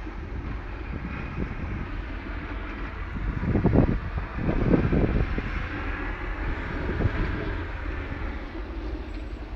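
Storm wind in a snowstorm, buffeting the microphone with a steady deep rumble and hiss. Two strong gusts come around the middle.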